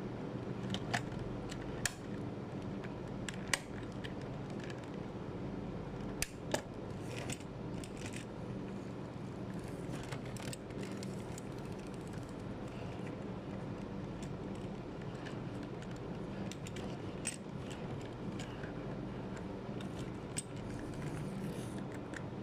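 Scattered light clicks and small metallic knocks from diecast model cars being handled, over a steady low hum. The clicks come irregularly, a cluster in the first several seconds and a few later on.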